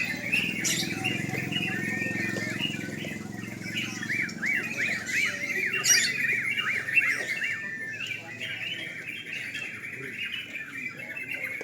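Several yellow-vented bulbuls (trucukan) singing together in quick, bubbling chirps, with a fast run of rising and falling notes about halfway through. A low murmur of voices sits under the first half.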